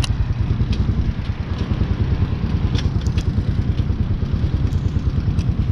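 Hawk 250's single-cylinder engine idling with a steady, pulsing rumble, with a few sharp clicks on top near the start and about three seconds in.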